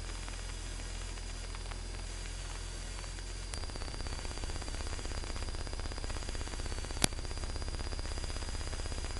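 Steady static hiss from an aircraft's cockpit intercom feed in flight, with a faint high tone and a low hum. About three and a half seconds in, the low hum turns rougher and rapidly pulsing, and a single sharp click comes about seven seconds in.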